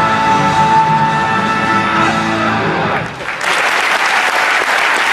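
Rock song with electric guitar ending on held notes, then a short drop and, about three and a half seconds in, a group breaking into clapping and cheering.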